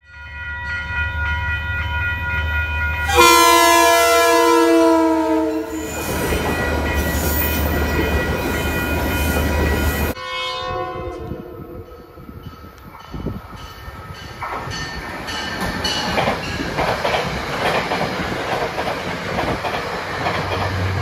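Metro-North commuter train passing a grade crossing: the crossing bells ring over the train's rumble, then the train sounds its horn about three seconds in, the horn's pitch falling as the train goes by. After a sudden change about halfway through, another train horn fades out with falling pitch, and a Metro-North express passes a station platform, its wheel-on-rail noise building toward the end.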